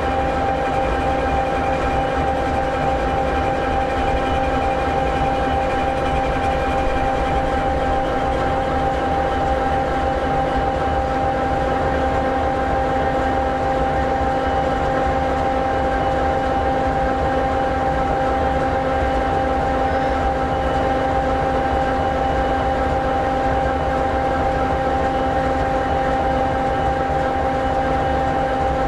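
SD60E locomotive's EMD 16-710G3B engine, a turbocharged 16-cylinder two-stroke diesel, idling steadily: a low rumble with several steady whining tones over it. A higher whine fades out about seven seconds in.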